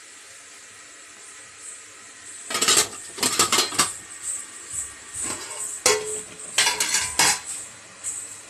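Metal dishes clattering as a plate is set into an idli steamer pot: a few seconds of quiet, then several bunches of sharp clinks and knocks, one leaving a brief ring.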